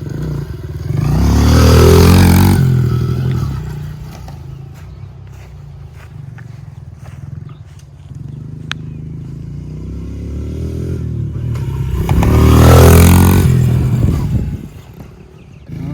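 Small four-stroke Honda CRF kids' dirt bike riding the track, its engine swelling loud twice as it passes close, about a second in and again near the end, and running fainter further off in between.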